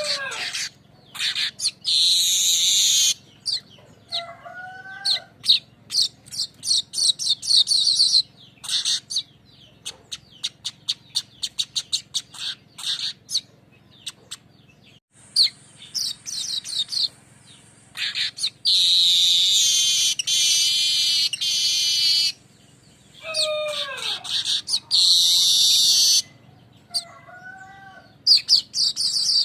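Weaver (manyar) singing: long buzzy, hissing phrases alternating with runs of fast, dry ticking chatter, with a few falling whistled notes in between.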